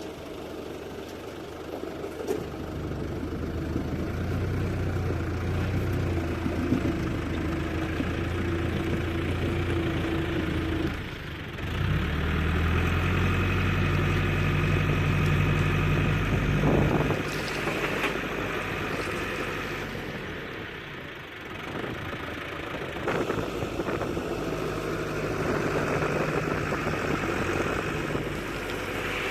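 Diesel engine of heavy machinery working under changing load. It settles back briefly about a third of the way in and again past two-thirds, and picks up after each.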